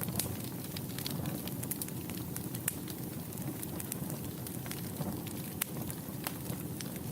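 Wood fire burning in a fireplace: steady low rumble of the flames with frequent irregular sharp crackles and pops from the burning logs.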